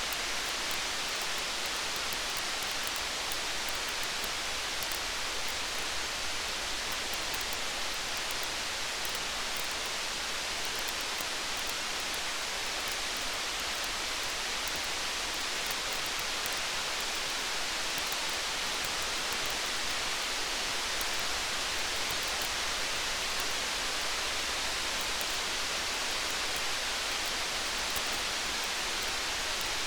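Steady rain falling as an even hiss, with faint fine crackles of a campfire scattered through it.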